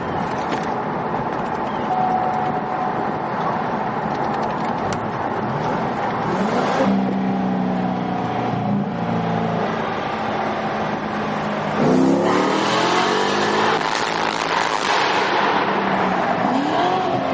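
Chevrolet Corvette engine being revved in neutral, dropping back to idle between blips; the pitch climbs sharply about six seconds in and again, loudest, about twelve seconds in, with a shorter rise near the end.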